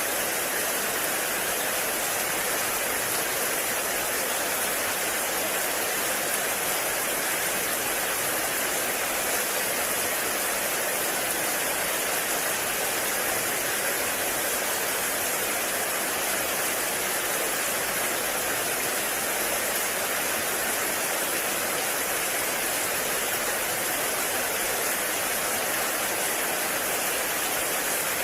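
Heavy rain falling steadily as an even hiss, with no single drops or thunder standing out.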